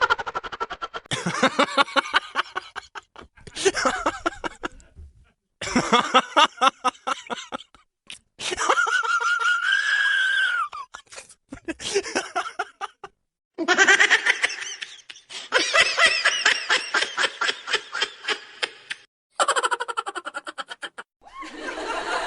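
A high, cartoonish voice laughing in rapid, choppy pulses, cut together as a string of short clips with abrupt stops and brief silences between them. About halfway through comes one long, high, held squeal.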